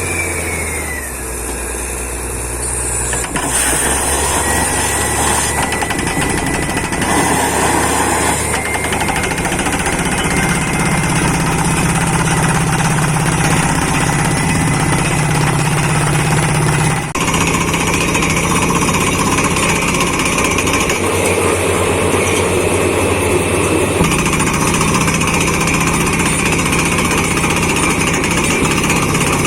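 Borewell drilling rig running, with a rapid pounding percussion hammer over the engine and compressor noise. The sound steps up about three seconds in, as drilling gets going after the rig has been levelled, then holds steady.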